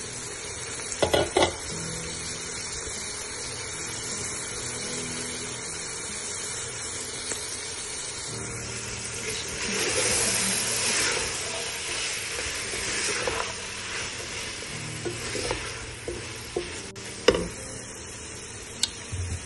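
Chopped vegetables, chicken and freshly washed peas sizzling in a steel frying pan while being stirred with a wooden spatula. There is a short clatter about a second in, and the sizzle swells for a few seconds around the middle.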